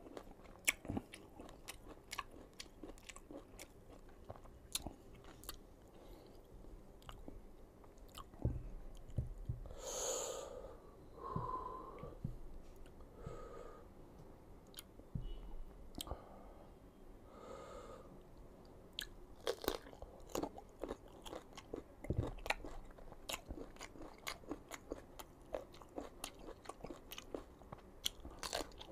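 Close-miked biting and chewing of crisp, unripe green mango, with sharp crunches all through and a stretch of wetter mouth sounds in the middle.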